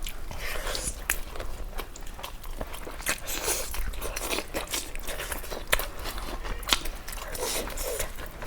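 A person biting and chewing crunchy food close to the microphone, with a stream of crisp crackles and crunches.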